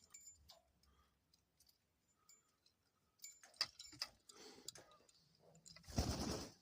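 Dove preening its damp feathers: faint scattered clicks and soft feather rustles, then a short, louder rustle of about half a second near the end.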